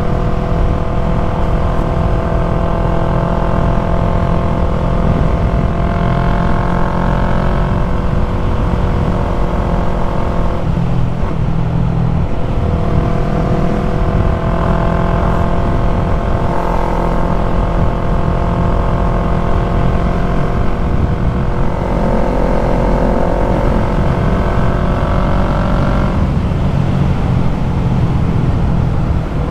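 2020 Yamaha MT-03's parallel-twin engine running through an aftermarket full-system exhaust while riding at steady revs. The note drops and then picks back up about ten seconds in, again a little past twenty seconds, and near the end, with a constant rush of wind underneath.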